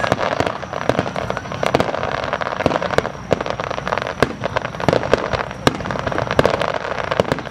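Fireworks display: a dense run of sharp bangs and crackles, several a second, over a steady rushing noise.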